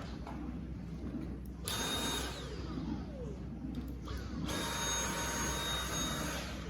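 Dyson V8 Absolute cordless vacuum motor switched on twice, once briefly and then for about two seconds, with a high steady whine, its pitch falling away each time it is switched off.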